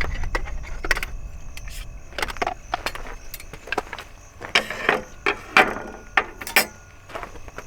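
Irregular clicks, knocks and light clattering, as of hard objects being handled, with the sharpest strikes in the second half. A low rumble sits under the first second or so.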